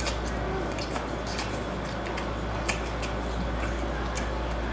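Wet smacks and clicks of someone chewing seafood, scattered every second or so, over a steady low hum.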